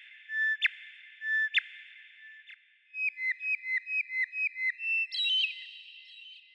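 A songbird singing clear whistled notes. A few held whistles, each broken by a sharp upward flick, are followed by a quick run of about eight short repeated notes at roughly four a second, ending on a higher note.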